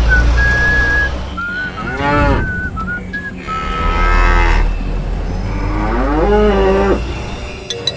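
A cow mooing three times in long, drawn-out calls over a whistled tune and a steady low hum.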